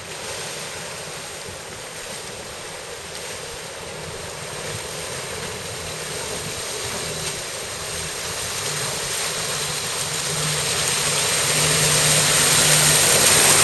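Rushing river water with a four-wheel drive's engine running under it as the vehicle crosses the river. The water noise grows steadily louder toward the end.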